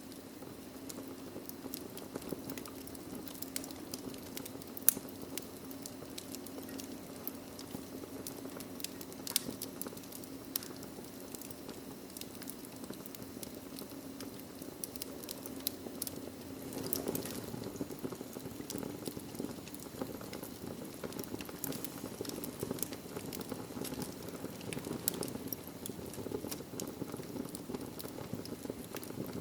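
Wood fire burning in a fireplace: a steady low rush of flames with frequent small crackles and pops, one sharper pop about five seconds in.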